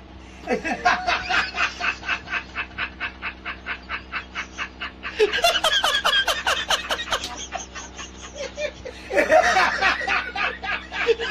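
Laughter in three long bouts of quick, evenly paced 'ha-ha' pulses, each bout opening with a falling squeal and starting about half a second, five seconds and nine seconds in.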